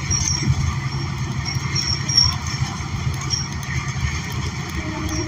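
Inside a New Flyer XN40 city bus: its Cummins Westport L9N natural-gas engine and drivetrain give a steady low rumble, with frequent light clicks and rattles from the cabin.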